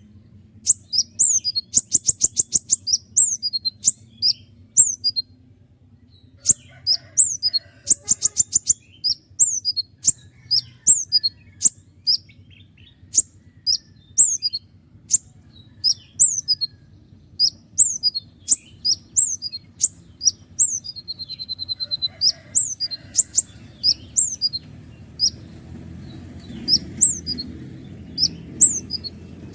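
Konin (kolibri ninja) sunbird singing: a long run of sharp, high, down-slurred notes fired in quick series, broken by two fast rattling trills about two and eight seconds in. A low steady hum sits under the song and grows louder near the end.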